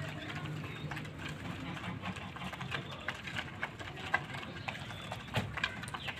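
Pigeons in a loft cooing low, with scattered clicks and scuffs from the birds moving about.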